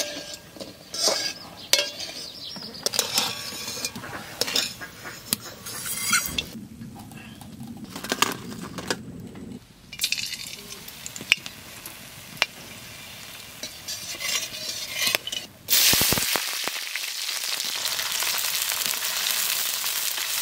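Metal spatula clinking and scraping against a large kadai, then oil sizzling faintly as garlic cloves fry. Near the end, after a brief drop, a loud steady sizzle takes over as sliced onions fry in the hot oil.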